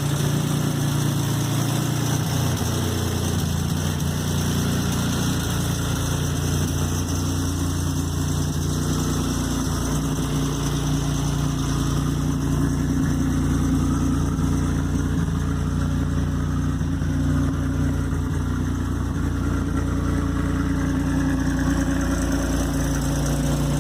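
Buick Regal Turbo T's turbocharged 3.8-litre V6 idling steadily, still warming up after a cold start.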